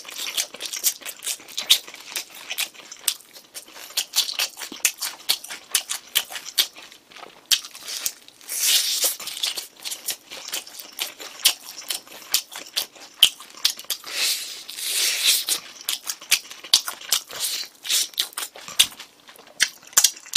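Close-miked chewing of sweet-spicy glazed Korean fried chicken (dakgangjeong): a dense run of short wet clicks and lip smacks, with a couple of longer hissing stretches near the middle.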